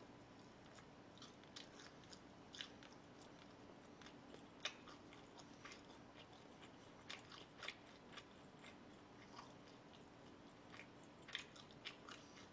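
Faint, close chewing and biting: scattered, irregular small crunchy mouth clicks of someone eating, over a faint steady hum.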